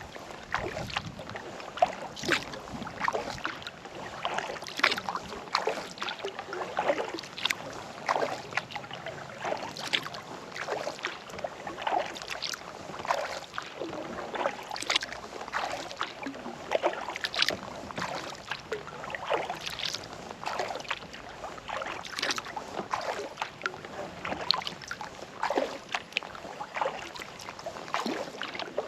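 Kayak paddle strokes, the blades dipping and splashing into lake water one every second or two, with small water sounds and light wind between strokes.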